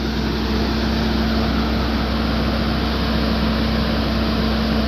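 Heavy truck's diesel engine pulling steadily as the truck climbs the mountain grade, with a constant hum and a continuous rumble.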